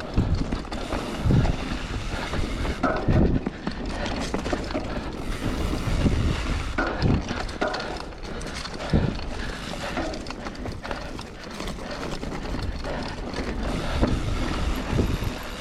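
Mountain bike ridden along a dirt trail: steady rolling and rattling noise with irregular knocks and creaks, which the rider puts down to a creaking bottom bracket, and wind on the microphone.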